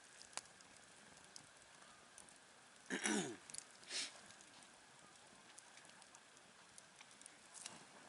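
Campfire burning with faint, scattered crackles. About three seconds in there is a louder crackling burst with a short falling tone, and a second, shorter burst follows a second later.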